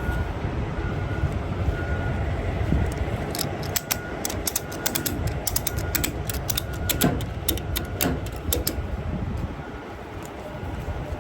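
Ratchet clicking in quick, irregular runs for about five seconds, starting a few seconds in, over a steady low rumble. A faint beep repeats in the background.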